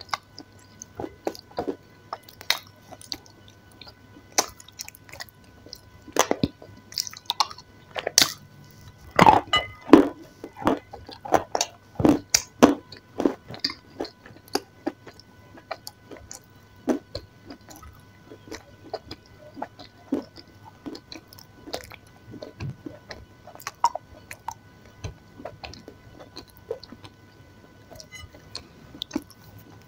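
A person chewing and biting food close to the microphone: irregular sharp wet mouth clicks, busiest and loudest about a third of the way in, over a faint steady hum.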